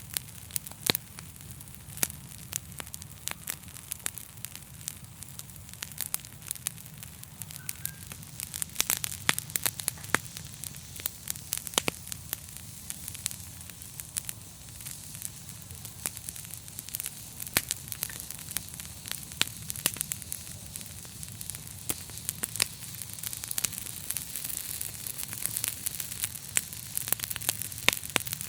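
A fire crackling, with irregular sharp pops and snaps over a steady hiss and a low hum.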